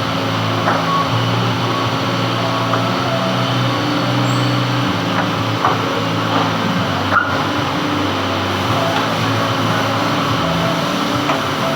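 Metal lathe running steadily while turning a gland, a constant machine hum with a few light clicks.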